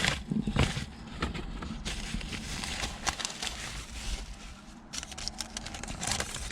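Hands handling the mirror parts: rustling with many scattered light clicks and taps, busier near the start and again near the end.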